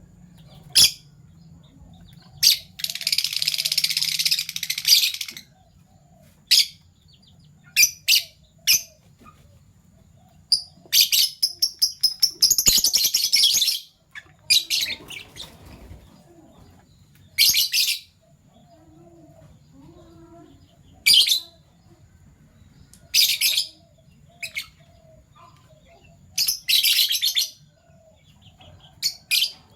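Fischer's lovebirds giving short, high-pitched chirps at irregular intervals. There are two longer bouts of rapid chattering, about three seconds in and again from about eleven to fourteen seconds.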